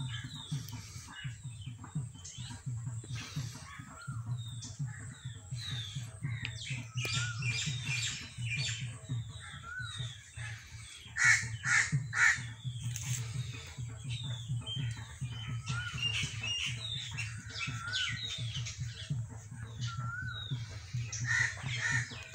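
Several birds calling: repeated short whistled notes and chirps throughout, with a few louder harsh calls about halfway through. A low steady hum runs underneath.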